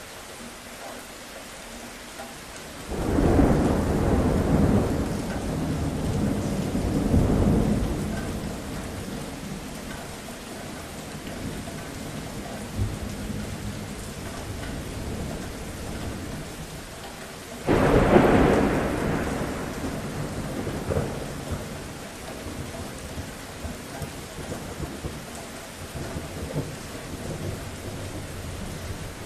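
Steady rain with two rolls of thunder: the first breaks about three seconds in and rumbles on for several seconds, the second hits sharply about eighteen seconds in and fades away.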